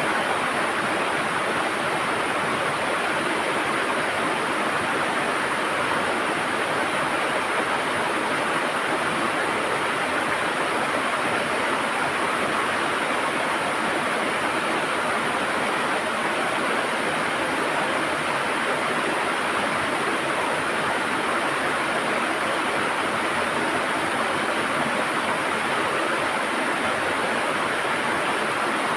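River water flowing and gurgling steadily, an even rushing noise.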